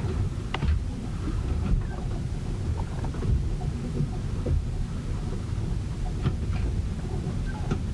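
Storm heard from aboard a ship: a steady low rumble of wind and water against the hull, with scattered short clicks and knocks throughout.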